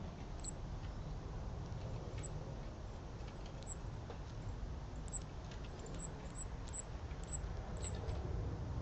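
Short, very high-pitched chirps or squeaks from a small animal, repeating at irregular intervals and coming more often in the second half, over a steady low outdoor rumble.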